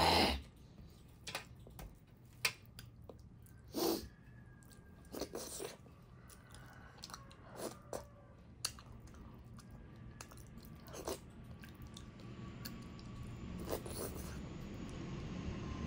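Close-up eating sounds: wet chewing and mouth noises from soft food eaten by hand, with short sharp clicks and taps of fingers on a steel bowl and metal plate, the loudest about four seconds in. A low steady hum grows louder through the second half.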